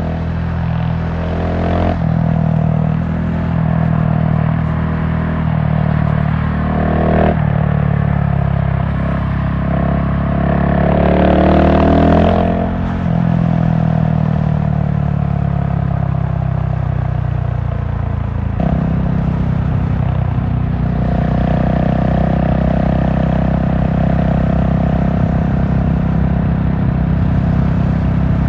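GasGas SM700 supermoto's single-cylinder four-stroke engine under way, its note stepping with gear changes; the revs climb near the middle, then fall away steadily for several seconds before picking up again near the end.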